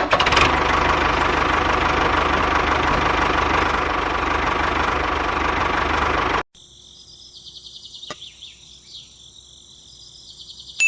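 Small motor of a DIY model tractor running steadily with a whine, cutting off suddenly about six seconds in; after that only fainter high-pitched sounds remain.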